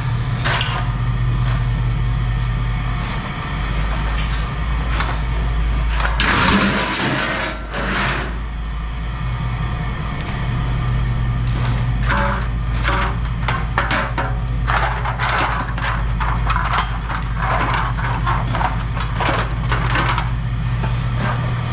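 Pieces of scrap aluminum clanking and clattering as they are tossed and handled, in quick runs of hits that come thickest in the second half, over a steady low engine hum.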